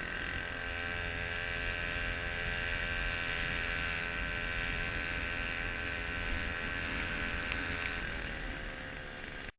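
A small motor clamped to the side of a kayak runs steadily at speed. Its pitch lifts slightly near the start and drops a little near the end before the sound cuts off suddenly.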